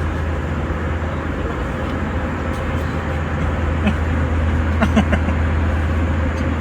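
Steady vehicle noise: a continuous low rumble and hiss, with a few faint brief sounds about four to five seconds in.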